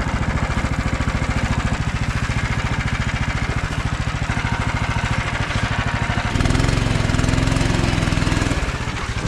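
Small engine of a Snowdog tracked snow machine running with a fast, even putter. About six seconds in it grows louder and heavier.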